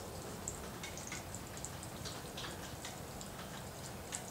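Rain falling and dripping during a thunderstorm: scattered light, irregular taps of drops over a steady hiss, with one sharper tap near the end.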